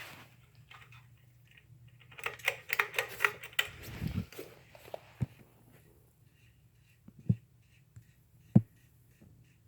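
Craftmade patio ceiling fan running with a steady low motor hum, otherwise really quiet. A quick run of rattling clicks with a dull knock comes about two seconds in, then single sharp clicks every second or two, from the metal pull chain ticking against the fan housing.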